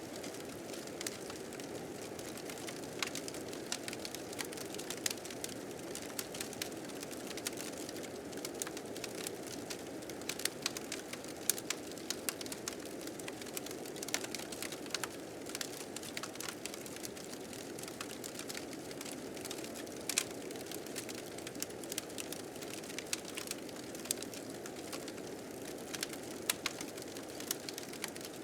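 Wood fire crackling with frequent irregular sharp pops over a steady rush of blizzard wind.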